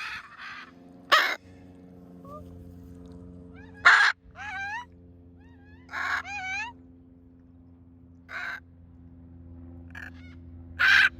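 Macaws squawking: five loud, harsh calls spaced a couple of seconds apart, with warbling, wavering whistled notes between them, over a faint steady hum.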